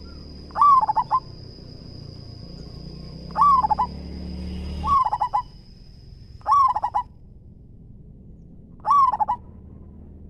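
Zebra dove (perkutut) singing: five short, stuttering coo phrases of about half a second each, spaced a couple of seconds apart, over a steady high-pitched whine that stops about seven seconds in.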